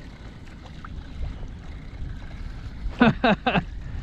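Low wind and water noise, then about three seconds in three quick, loud squeals, each falling steeply in pitch.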